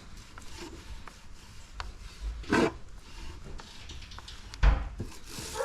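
A brush rubbing and scraping over plywood as a quick-hardening coating is spread on, with two louder knocks about two and a half and four and a half seconds in.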